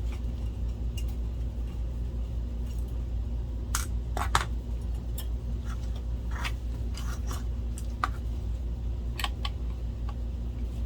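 Scattered small metallic clicks and taps of a screwdriver and small screws being handled while a projector's optical assembly is taken apart, over a steady low hum.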